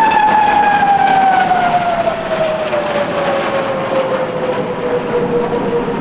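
Hongdu L-15E jet trainers passing in formation: a loud jet engine whine over a rushing roar, the whine sliding steadily down in pitch over about four seconds as the aircraft go by, then holding low.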